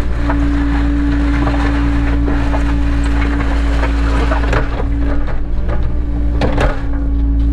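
Cat 307 excavator's diesel engine running steadily with a constant hum, while scraping and knocking noises come and go, strongest a little after the middle.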